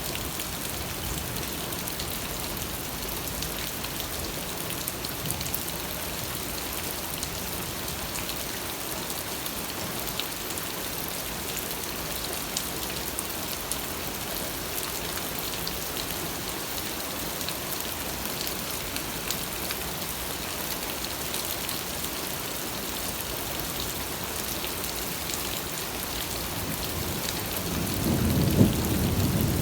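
Steady rain falling, with fine ticks of individual drops throughout. Near the end a low rumble of thunder swells and peaks.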